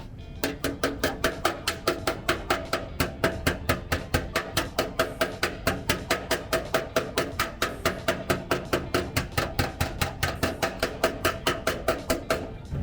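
Panel-beating hammer tapping a dented car body panel in a fast, even rhythm, about five blows a second, each with a short metallic ring. The tapping stops just before the end.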